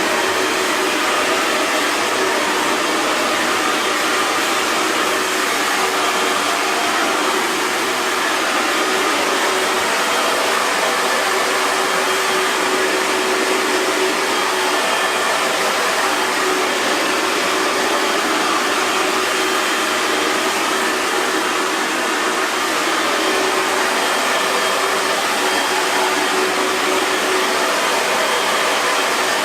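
Hair dryer running steadily: an even, unbroken rush of blown air with a faint steady hum from the motor.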